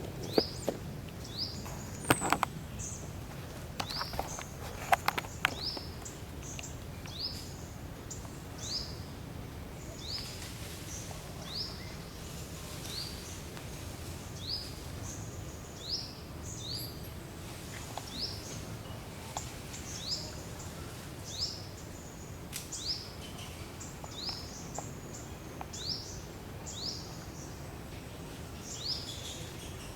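A bird's short, high chirp, repeated about once a second, over a steady hum of outdoor background noise. A few sharp clicks or knocks come in the first five seconds.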